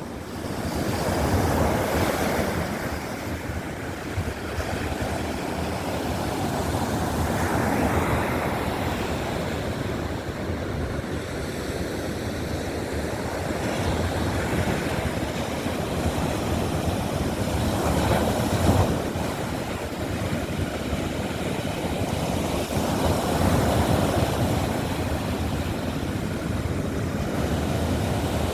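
Baltic Sea surf breaking on a sandy beach, rising and falling in swells every five or six seconds, with wind rumbling on the microphone.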